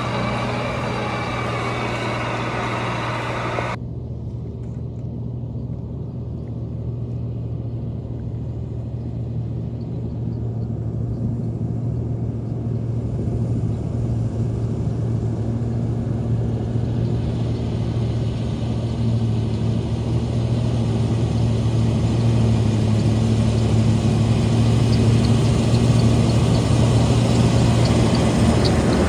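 Combine harvester's diesel engine running with a steady low drone. About four seconds in, its higher sound drops away suddenly, then builds back, growing louder toward the end.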